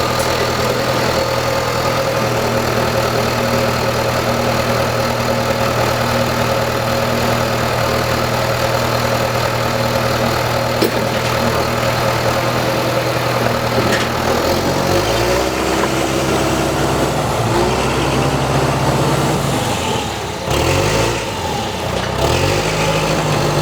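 An engine running steadily, then slowing and speeding up again a few times in the last third.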